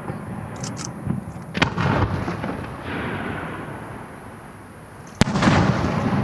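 Firework shells bursting: a few small crackles, then a sharp bang about a second and a half in and a second, louder bang about five seconds in, each followed by a long rolling echo.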